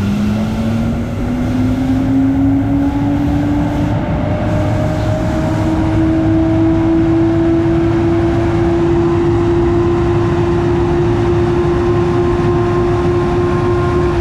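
A large motor-driven machine spinning up to speed: a whine that climbs in pitch for the first several seconds and then holds steady at running speed, over a steady rumble.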